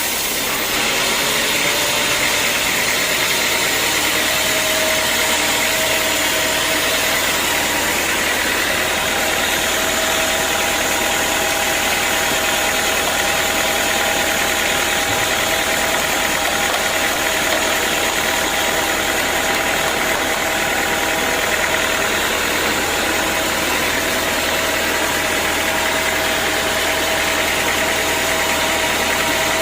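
Sawmill saw running steadily: a constant whine over a high hiss.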